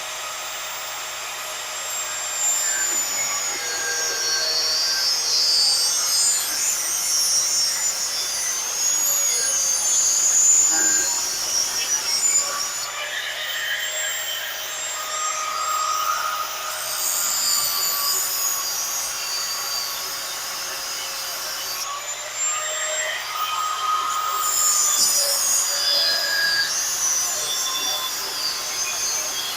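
Corded angle grinder with a cut-off wheel cutting through stainless steel exhaust tubing: a steady whine that wavers slightly in pitch as the wheel bites, with a harsh high hiss of the cut.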